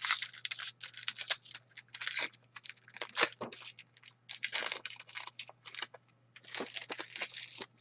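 An Upper Deck Series 1 hockey card pack wrapper being torn open and crinkled, in irregular bursts of rustling and crackling.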